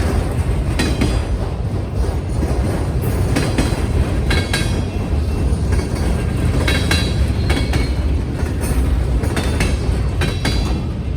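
Railway cars rolling over a diamond crossing, their wheels banging irregularly as they cross the gaps where the two tracks intersect, with several brief high-pitched wheel squeals.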